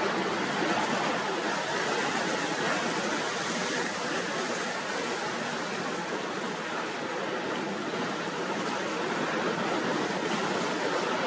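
Gale-force wind and heavy lake surf against a pier, a steady rush of noise with no separate crashes standing out.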